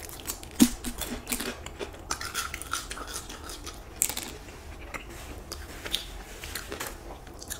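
Close-miked chewing of crispy fried chicken wings: wet mouth clicks and crackles, scattered unevenly, a few sharper than the rest.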